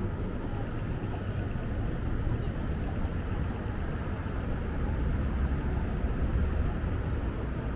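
Wind buffeting the microphone: a steady low rumble that swells a little over the second half, with a hiss of outdoor city noise beneath it.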